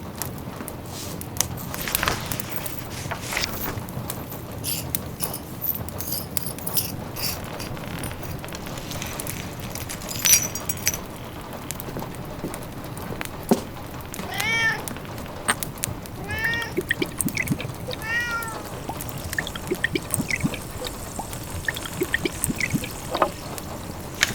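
Domestic cat meowing several short times midway through, over the steady snapping crackle of a wood fire in a fireplace.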